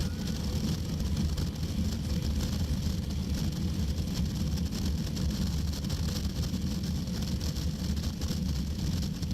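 Steady low rumble of a vehicle travelling at road speed: engine and wind noise, unchanging.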